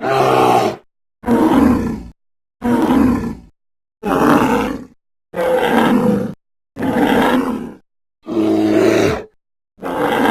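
Sound-effect roars of Arctotherium, a giant extinct short-faced bear: about eight short, growling roars, each under a second long and cut apart by brief silences.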